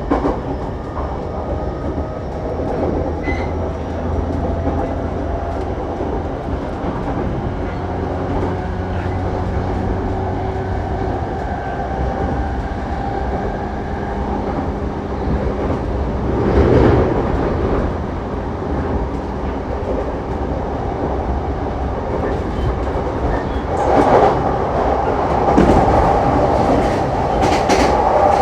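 A JR East Saikyo Line commuter electric train under way, heard from inside the car: a steady rumble of wheels on rail with a humming motor tone and some rail clatter. It swells louder about 17 seconds in and again near the end.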